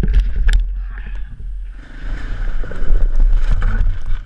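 Heavy low rumble and buffeting on the microphone, with several sharp knocks in the first half second and the rumble growing louder again from about two seconds in.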